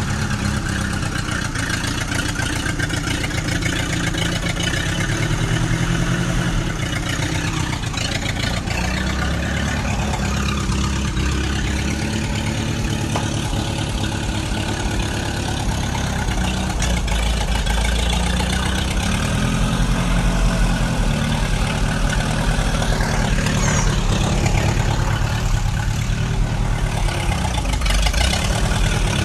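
Tractor engine running steadily, growing somewhat louder in the second half.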